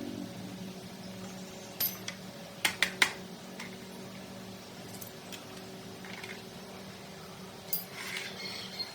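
Sharp metallic clinks of tools or metal parts being handled: a single clink, then three in quick succession about three seconds in, and a few more near the end, over a steady low hum.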